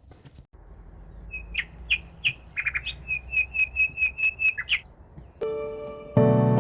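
A bird calling a quick run of about a dozen short, high notes, roughly four a second, over a low steady background. Music comes in near the end.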